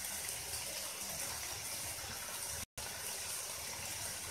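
Onion and ginger-garlic masala frying in oil in a kadai: a steady sizzle, with a brief break partway through.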